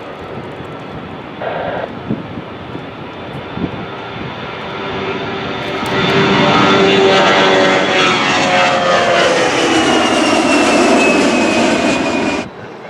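Airliner's engines passing close on the takeoff roll. The sound builds and is loud from about six seconds in, with a whine that slides down in pitch as the plane goes by, then cuts off abruptly near the end.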